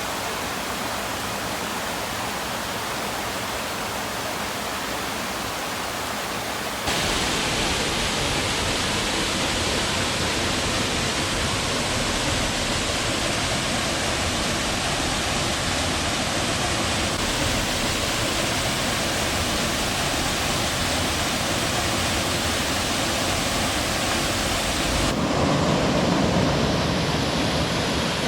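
Steady rushing water, an even hiss with no distinct events. It jumps louder about seven seconds in and shifts to a deeper rumble near the end, as if from different spots along the water.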